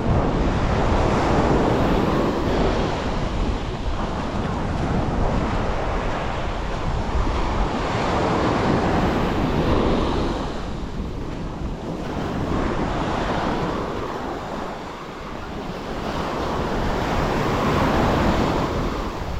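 Sea waves washing onto the shore, the surf swelling and fading every few seconds, with wind buffeting the microphone.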